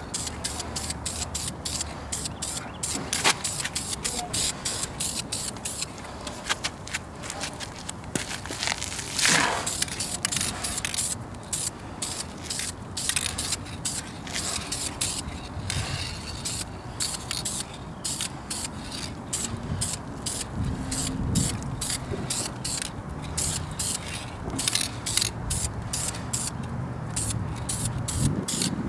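Duplicolor aerosol spray-paint can hissing in many short bursts as light passes of Ford blue engine paint go on. The bursts come faster and more evenly in the second half.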